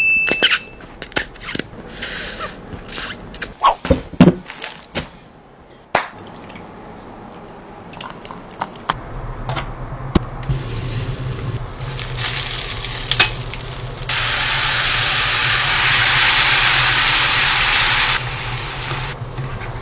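Pan cooking for japchae with Korean glass noodles: scattered knocks and clicks of utensils, then about four seconds of loud sizzling. A low steady hum runs underneath from about halfway.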